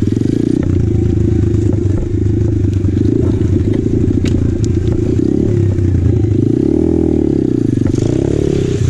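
2020 Apollo RFZ 125cc pit bike's single-cylinder four-stroke engine running at low revs, with revs rising and falling twice near the end. A few sharp clicks and knocks from the bike over rough ground.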